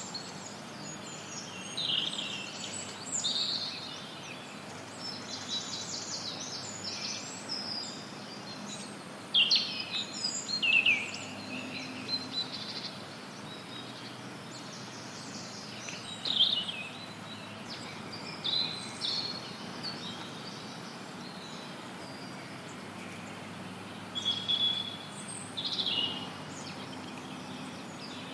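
Forest songbirds chirping and singing in short scattered phrases over a steady background of white noise hiss.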